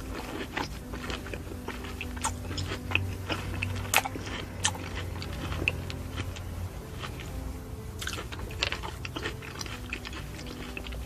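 A mouthful of fruit being chewed close to the microphone: irregular wet crunches and clicks, with a few sharper snaps among them.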